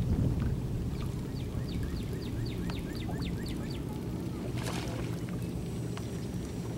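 A bird calling a quick run of about ten short, descending chirps over a steady low rumble of wind and water around the boat, with a brief rustling burst about two-thirds of the way through.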